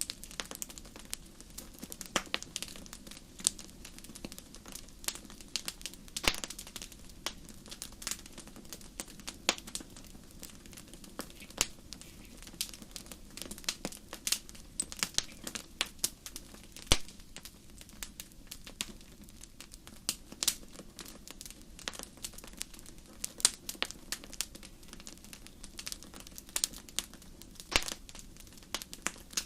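Wood fire crackling in a fireplace: dense, irregular pops and snaps over a low steady rumble of burning.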